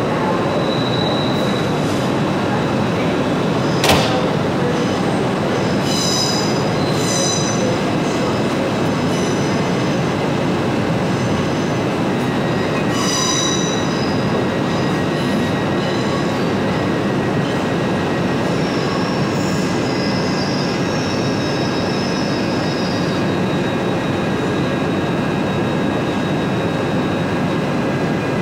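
A train running on the rails with steady, loud wheel and rail noise throughout. There is a sharp knock about four seconds in, and brief high-pitched wheel squeals around six to seven seconds in and again about thirteen seconds in.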